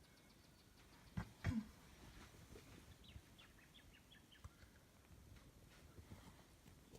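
Near silence, broken by two soft knocks a little over a second in, then a faint run of quick, short bird chirps.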